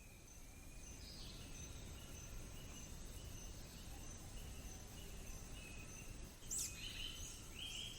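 Faint forest ambience. High insect chirps repeat evenly over a soft background hiss, and a few bird calls come through, one a quick sweeping chirp about six and a half seconds in.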